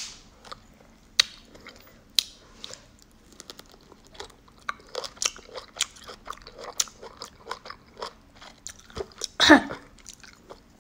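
Close-up crunching bites and chewing of unripe green mango slices dipped in soy sauce and salt: many short, crisp crackles, with one louder sound about nine and a half seconds in.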